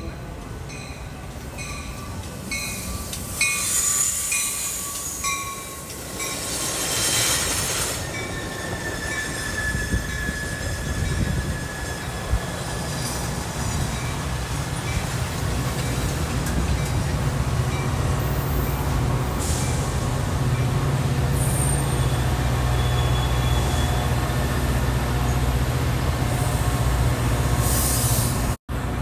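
Train rolling past with its wheels squealing against the rails, and a steady low rumble that grows from about halfway through. An evenly repeated ringing sounds in the first few seconds.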